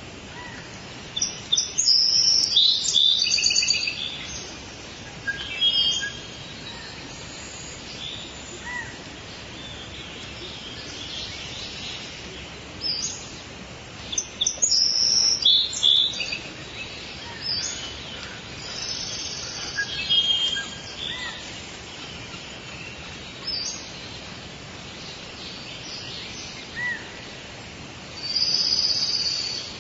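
Several birds chirping and trilling in short high bursts that come in clusters, over a steady hiss of forest ambience.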